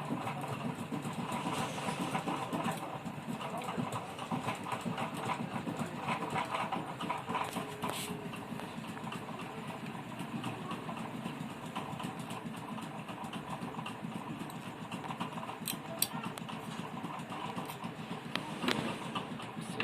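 Handling and tool noise at a repair bench while capacitors are removed from a TV circuit board: a dense, irregular clicking and rattling, with a few sharper clicks about eight seconds in, around sixteen seconds and near the end.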